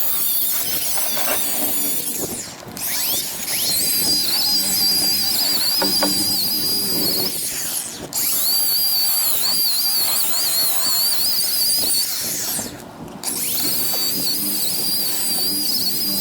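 DeWalt electric buffer running with a high, wavering whine, its pad working compound over a boat hull to remove oxidation. The buffer drops off briefly three times and winds back up each time.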